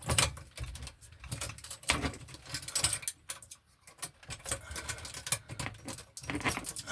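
Irregular small metallic clicks, rattles and scrapes as an MC cable connector is worked by hand into a 3/4-inch hole.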